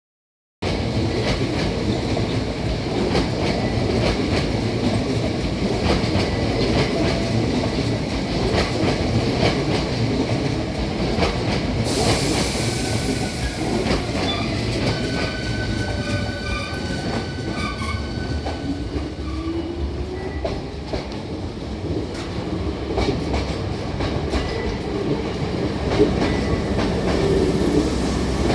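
Hankyu 5300 series electric train departing a station, running steadily. There is a short burst of hiss about twelve seconds in, and later a tone that slowly rises in pitch as the train gathers speed, with wheels clicking over the rail joints.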